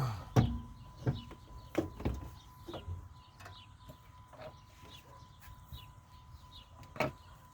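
A series of sharp metal knocks and clunks as a driver-side CV axle is worked into place on a 2008 Dodge Avenger. There are several in quick succession over the first three seconds, fainter ticks after that, and one stronger knock near the end.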